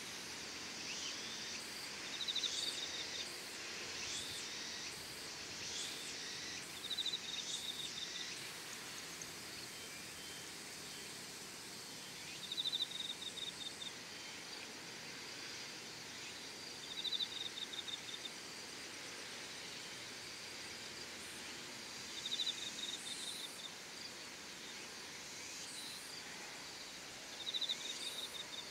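Outdoor evening ambience of singing insects: a steady high hiss, with a short pulsed chirping trill repeated about every five seconds.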